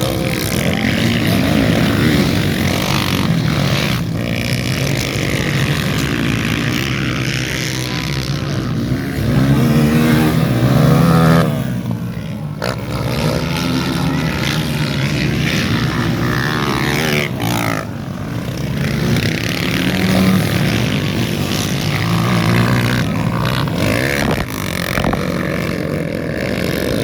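Racing dirt-bike engines revving, their pitch climbing and dropping again and again as riders open and close the throttle, with brief lulls about halfway through.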